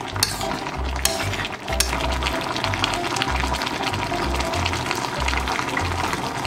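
Braised hairtail stew bubbling and crackling as it simmers in a stainless pan, over background music with a repeating bass line.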